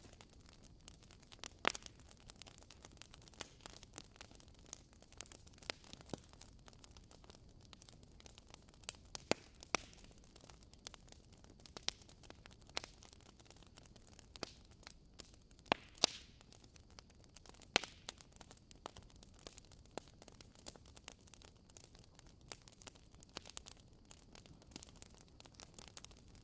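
Wood fire in a fireplace crackling: irregular sharp pops and snaps of burning logs over a soft steady hiss, with a few louder pops.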